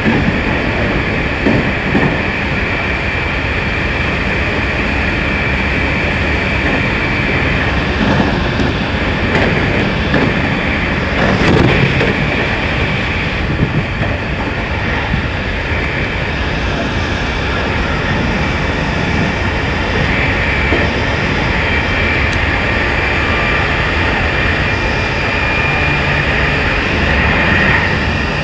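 Meitetsu Tokoname Line commuter train running at speed, heard from inside the carriage: a steady rumble of wheels on rail with a high, even whine over it.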